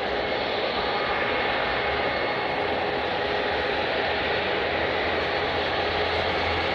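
Jet airliner engines running with a steady noise and a faint high whine that slowly falls in pitch.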